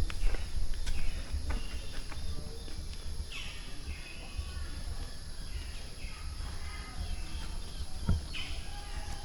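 Outdoor ambience with footsteps in the first couple of seconds, faint distant voices, and a bird giving a falling call about three seconds in and again near the end.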